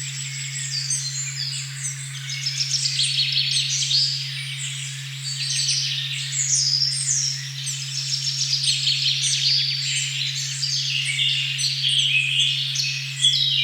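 A steady, unchanging low 136.1 Hz sine tone (the 'OM' frequency) sounds under a dense chorus of many songbirds chirping and trilling at once in a forest recording.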